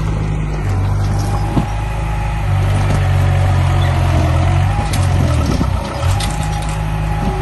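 Heavy diesel construction-machine engine running steadily and working, its note swelling and easing with the load, with a few short knocks.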